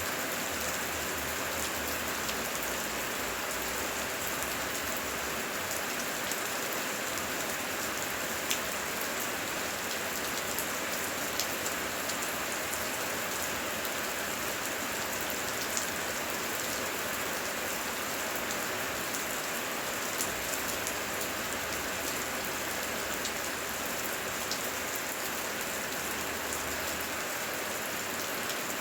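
Heavy rain falling steadily, a constant even hiss with sharp ticks of close drops landing now and then.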